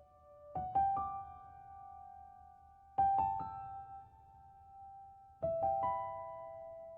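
Soft background piano music: slow chords of a few notes struck every two to three seconds, each left to ring and fade.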